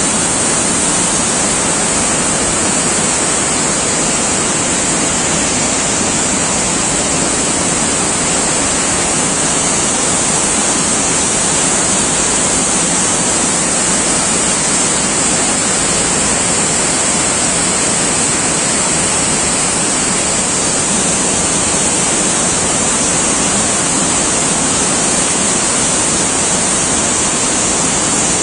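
A loud, even hiss of noise that never changes, strongest in the high treble.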